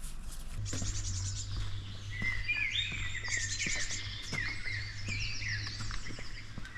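Songbirds singing in woodland, a busy mix of quick chirps, rapid trills and short rising and falling whistles, over a low steady hum that starts about half a second in and fades near the end.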